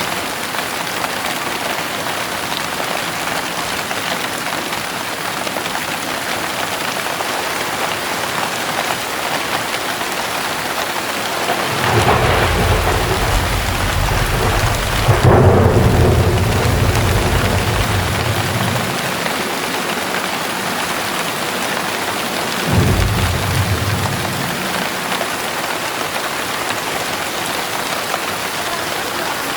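Heavy rain falling steadily, with thunder: a rumble builds about twelve seconds in, peaks in a loud crack a few seconds later and rolls away, and a second, shorter thunderclap follows later on.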